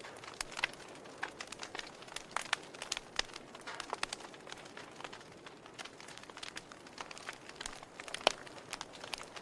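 Wood fire in a fireplace crackling: irregular snaps and pops over a soft hiss, with one sharper pop about eight seconds in.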